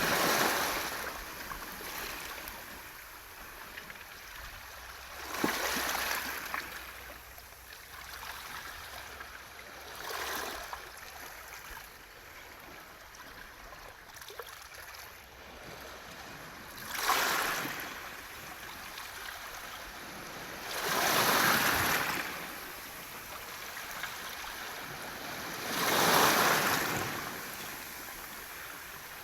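Waves washing in over a beach of round pebbles (mongdol), the stones rattling in the wash. The surges come about every four to five seconds, with a steady wash between them.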